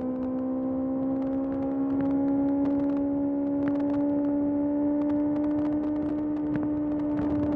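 Kawasaki ZX-6R inline-four engine pulling steadily under throttle, its note climbing slowly and evenly as the bike accelerates in one gear.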